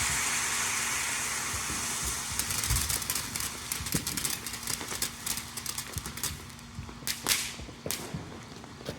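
A lit firework hissing, the hiss fading over the first couple of seconds. It gives way to a run of sharp crackles and pops that come thick at first and then thin out, with one louder crack about seven seconds in.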